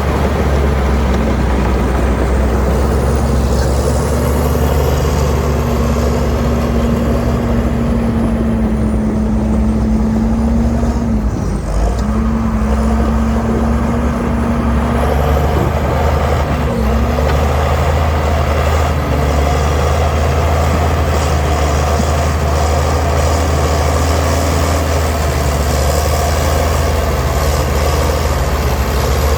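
Heavy diesel engine of earthmoving machinery running steadily with a deep rumble. A steady higher whine rides over it, breaking off briefly about twelve seconds in and fading out around fifteen seconds.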